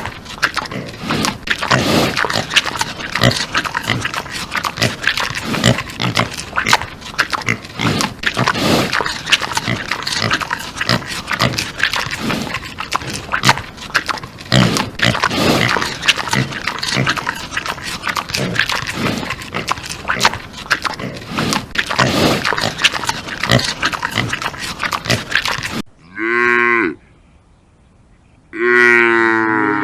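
A dense, continuous din of farm-animal calls and knocks until it cuts off suddenly near the end, followed by a cow mooing twice: a short moo, then a longer one that falls in pitch.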